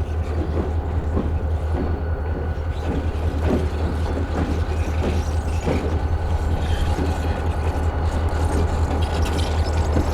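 Steady low vehicle rumble with scattered short knocks.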